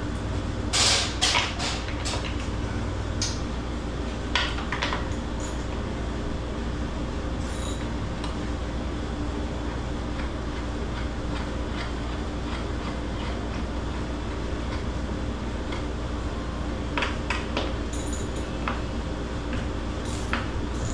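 Steady hum of the cooler's air conditioning, with scattered metallic clinks and clanks of hand tools and metal parts being handled: a cluster in the first couple of seconds, a few more near the end.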